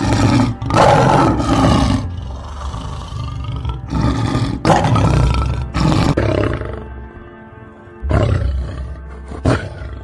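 A big cat roaring in several long, rough bursts, loudest in the first half, over background music.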